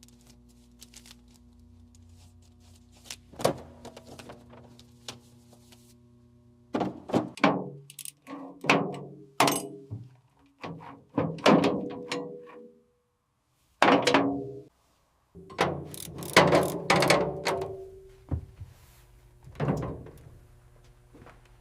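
A string of heavy metal knocks and clanks in irregular clusters, several ringing briefly, over a low steady hum.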